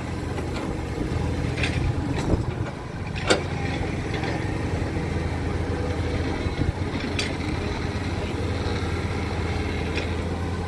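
A heavy vehicle engine runs steadily at low pitch, with a few short sharp knocks or clanks over it.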